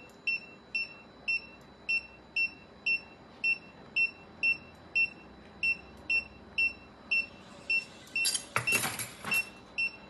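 Anaesthesia patient monitor giving a short high beep with each pulse of the anaesthetised cat, steady at about two beeps a second. About eight seconds in, a loud crackling rustle lasts about a second.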